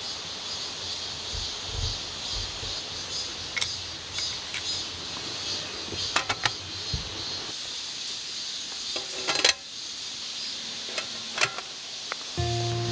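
Scattered light clicks and knocks of objects being handled, a cluster about halfway and a louder group about two-thirds in, over a steady outdoor hiss.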